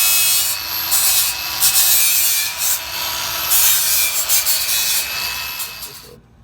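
Angle grinder working metal, the grinding swelling and easing in pulses under a faint steady motor whine, then cutting off suddenly near the end.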